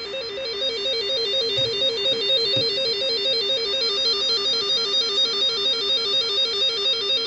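Electronic two-tone weather warning alert from a radio scanner, rapidly alternating between two pitches without a break.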